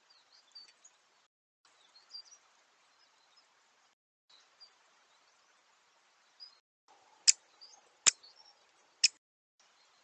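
Faint, high chirps of small songbirds from the woodland, cut by short silences where trail-camera clips are spliced together. Near the end come three sharp clicks about a second apart, much louder than the chirps.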